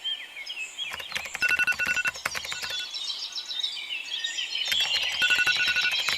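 Several birds singing, with dense chirps and trills throughout. A short run of evenly pitched piping notes repeats twice, about a second and a half in and again near the end.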